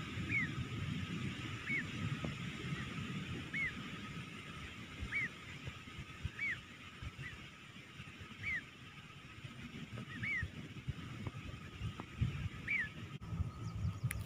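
Nightjar calling: a short, sharp, arched note repeated about every one and a half to two seconds, around ten times, over a low rumble.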